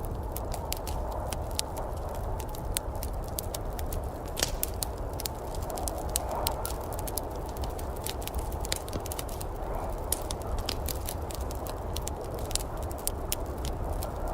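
Wood fire crackling: many irregular sharp pops and snaps over a steady low rushing noise.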